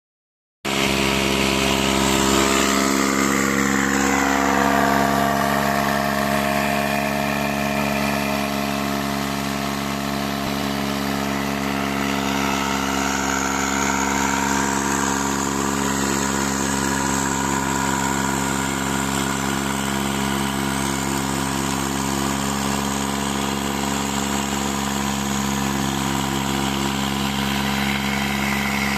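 Diesel tractor engine running steadily at a constant speed, cutting in just after the start. A higher whine falls in pitch a few seconds in.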